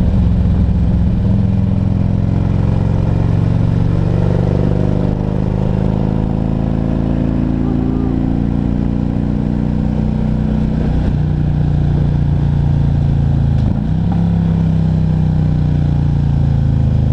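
Harley-Davidson Ultra Classic Electra Glide's V-twin engine running under way at cruising speed, its note drifting slowly with the throttle through the bends, over road and wind noise. About fourteen seconds in, the note drops briefly and picks up again.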